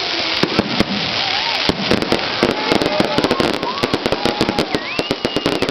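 Firecrackers going off in a rapid, irregular run of sharp bangs, many a second.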